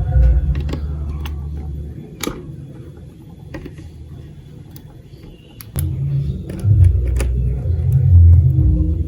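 Marbles rolling down a plastic building-block marble run: a low rolling rumble with scattered clicks as they hit the track pieces. The rumble fades about two seconds in, leaving a quieter stretch of occasional clicks, then returns louder from about six seconds.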